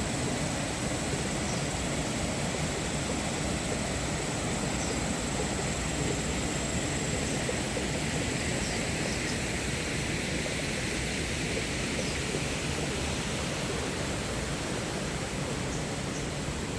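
Rainforest ambience: a steady rushing noise under a continuous high-pitched drone, with a few faint short chirps.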